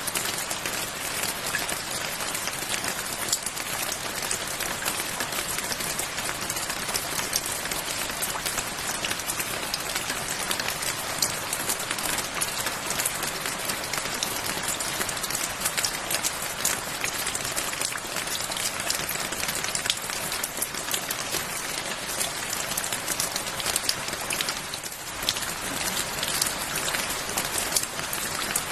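Steady rain falling, with many close drops pattering and ticking on a surface; no thunder.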